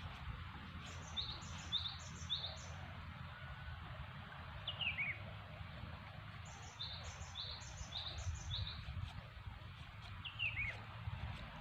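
Bird song: two runs of about four quick, high, repeated chirps, with a short falling call after each run, over a steady low background rumble.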